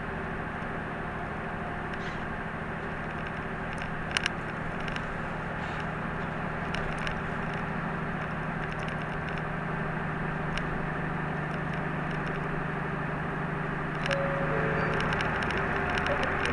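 Route bus running, heard from inside the cabin: a steady engine hum and road noise, with two sharp clicks about four seconds in. The sound grows a little louder near the end.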